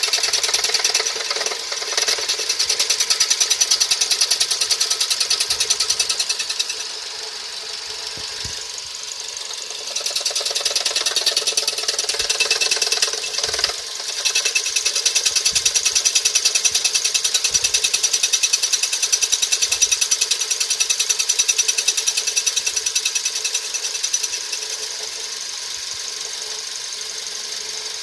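Suzuki SX4 1.6-litre engine running with an odd rapid metallic ticking rattle. The rattle swells for several seconds at a time, three times, and falls back to a quieter steady tick between spells and after about 24 seconds.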